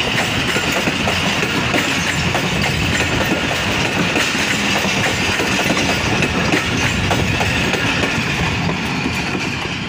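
Passenger coaches of a departing Pakistan Railways express rolling past close by. Their wheels clatter over the rail joints in a continuous clickety-clack over a steady high-pitched hum, easing a little near the end as the train draws away.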